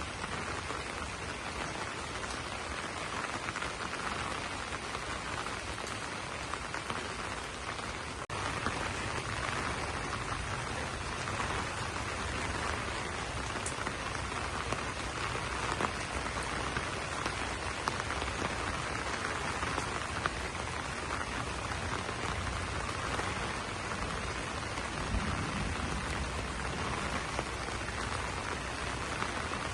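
Steady rain falling on broad banana leaves, an even hiss with scattered louder drop hits. There is a brief dip about eight seconds in, after which the rain sounds slightly fuller.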